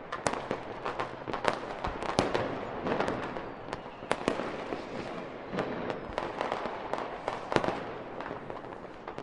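Fireworks display: a rapid barrage of sharp bangs and crackles, several a second, over a continuous crackling fizz, with the loudest bangs about two seconds in and near seven and a half seconds.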